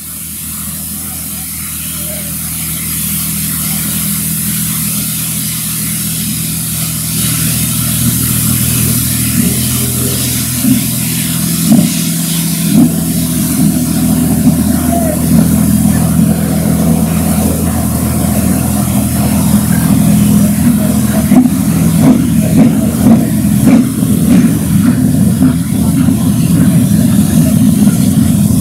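Train pulling out and gathering speed: a steady low drone that grows louder, with irregular clanks and clatter building up over the second half.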